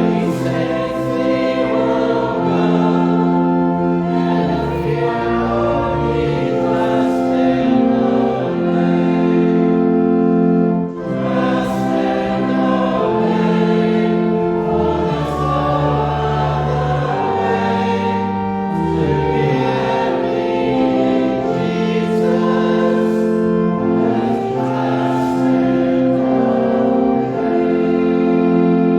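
A choir singing a slow hymn in sustained chords, changing every second or two.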